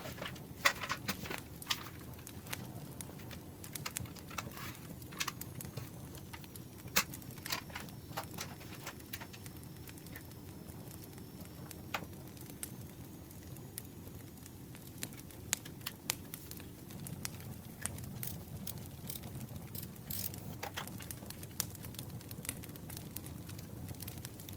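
Campfire crackling: scattered sharp pops and clicks over a steady low rumble of burning wood.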